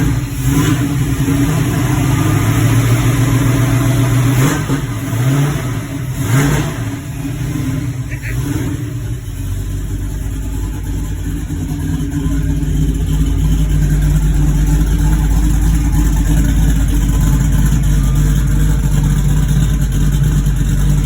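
Mercury Comet GT engine running, blipped a few times about four to six seconds in, then idling steadily.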